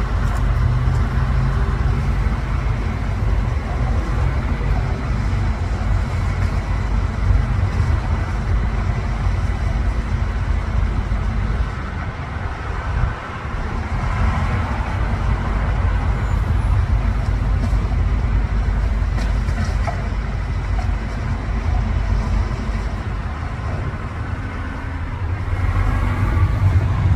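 Rotopress garbage truck's diesel engine running steadily at close range, a continuous low rumble with a brief dip about halfway through.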